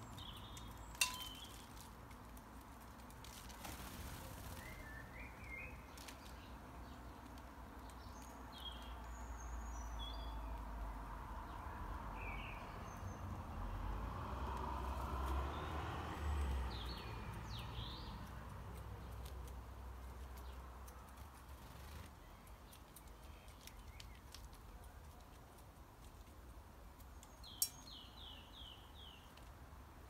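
Small birds chirping now and then, with a quick run of about five chirps near the end, over a low rumble that swells through the middle and fades. Two sharp clicks, one about a second in and one near the end.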